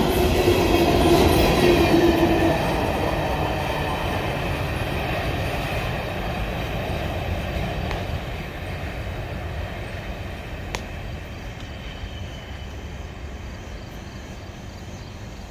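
Empty coal hopper cars rolling along the track, wheels rumbling on the rails and fading steadily as the tail of the train moves away. A steady wheel squeal rides over the rumble for the first couple of seconds.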